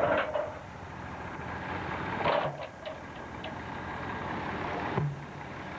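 An engine running steadily, with sharp knocks and clatters at the start, about two seconds in, and once more near the end.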